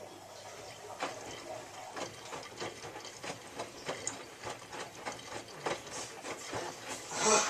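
Miele W3744 washing machine partway through its wash, with a low steady hum and irregular clicks and knocks from the turning drum. A short, loud hiss comes near the end.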